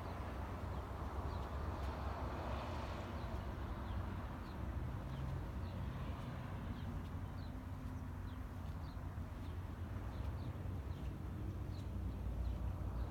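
Steady low rumble with small birds chirping in short, falling high notes scattered throughout.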